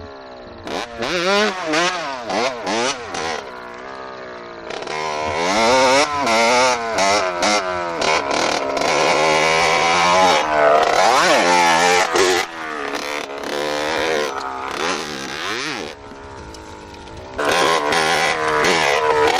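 Motorbike engine revving up and down over and over, its pitch climbing and dropping with each blip, with a brief lull near the end before it picks up again.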